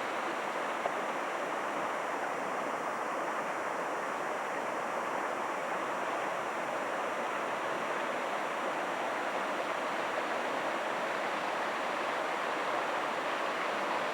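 Steady rushing of flowing water, an even noise that holds constant throughout.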